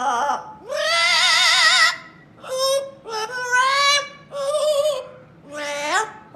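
A pet parrot singing in an operatic warble: a run of held notes with a strong, regular wobble in pitch, broken by short pauses, the last note rising.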